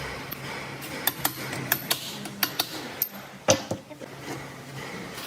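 A series of sharp metallic clinks and taps from metal tools and parts being handled, about eight in all, with the loudest knock about three and a half seconds in, over a faint steady hum.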